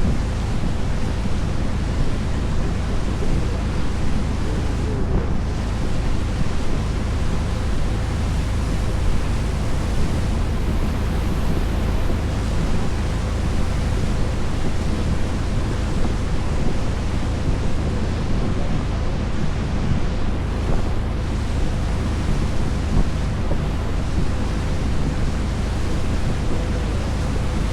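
Small tour boat under way: a steady low engine drone under a constant rush of wind on the microphone and water past the hull.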